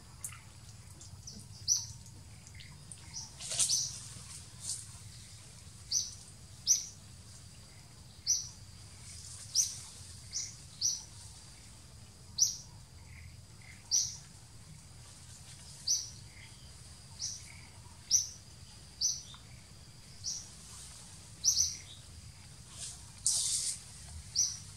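A bird calling in the canopy: short, sharp, high chirps repeated about once a second, over a faint low background hum.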